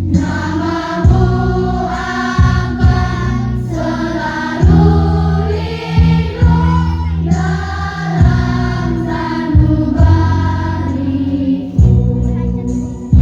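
A grade 6 children's class choir singing in unison over an instrumental accompaniment, in phrases with short breaths between them.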